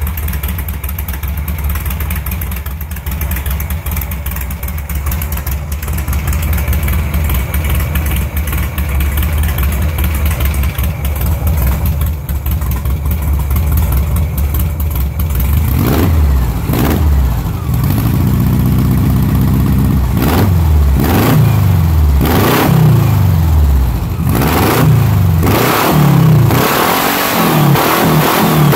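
Freshly rebuilt air-cooled VW flat-four engine, exhausting through twin tailpipes, idling steadily and then having its throttle blipped again and again from about halfway on, each rev rising and falling in pitch. The blips come faster toward the end.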